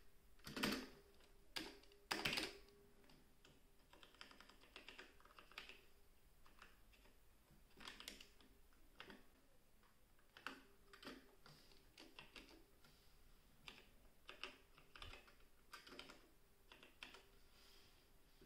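Typing on a Logitech G413 Carbon mechanical keyboard with Romer-G tactile switches: quiet, irregular key clicks, with a few louder strokes in the first couple of seconds.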